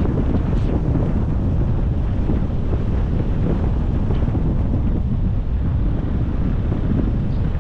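Wind buffeting the microphone of a camera on a moving car: a steady, heavy rumble, with the car's road noise underneath.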